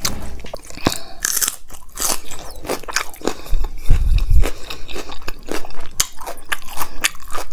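Close-miked chewing, with lip smacks and quick wet mouth clicks, of a person eating rice and dal with her fingers. There is a brief low rumble about four seconds in.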